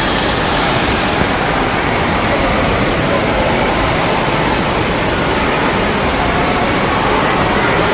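Steady, loud rush of falling and splashing water from indoor water park slides and features, with no breaks or distinct events.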